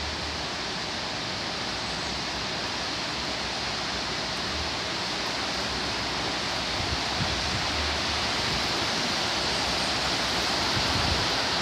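Torrential rain pouring down with heavy wind, a steady hiss that slowly builds in loudness.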